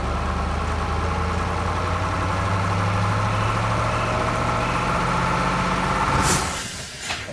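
Heavy machinery engine running steadily with a low rumble, cutting off about six and a half seconds in.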